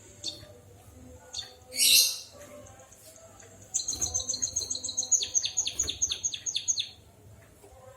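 Emprit kaji (white-headed munia) singing a canary-like song: two short high chirps, a harsh burst about two seconds in, then a rapid trill of about six high, falling notes a second that runs for about three seconds.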